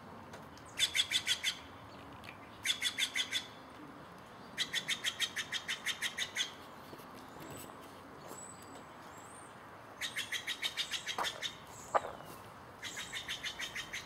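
A bird calling in five rapid rattling trills, each a quick run of high notes at about six a second, with pauses of one to three seconds between. A single sharp click sounds about twelve seconds in.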